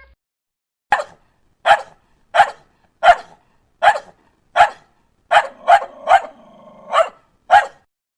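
Dog barking: a run of about eleven short, sharp barks, a little under a second apart at first and coming faster in the second half.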